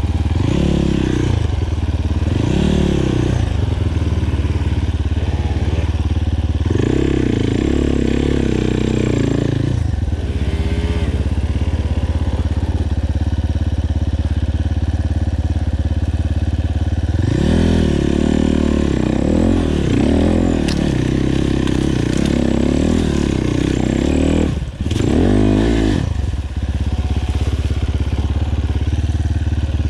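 Enduro motorcycle engine being ridden, the revs rising and falling repeatedly under throttle and held high for a few seconds at a time, with the throttle briefly shut off near the end.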